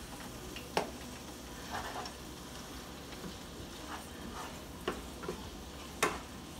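Callaloo, bell peppers and onions sizzling in a frying pan as they are stirred with a spatula, with a few sharp clicks of the spatula against the pan.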